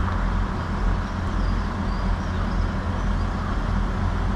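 Diesel train's engine idling steadily with a low, even rumble.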